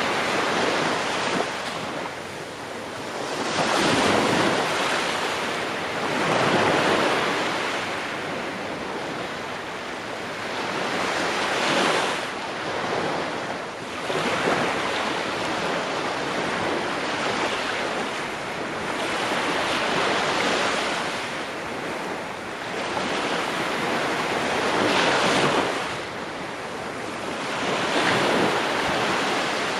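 Ocean waves breaking on a shore, each wave swelling and washing away every few seconds over a constant background of surf.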